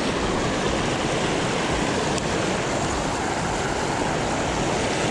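River water rushing in a steady, even noise.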